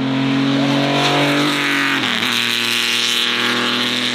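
Race car engine accelerating hard, its note climbing then dropping sharply about two seconds in as it shifts up a gear.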